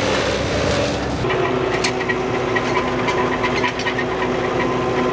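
Old farm tractor engine running steadily with a light ticking knock. A loud rushing noise over it cuts off about a second in.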